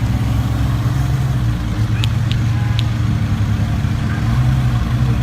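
A steady low hum of a motor vehicle engine running, with three short clicks a little after two seconds in.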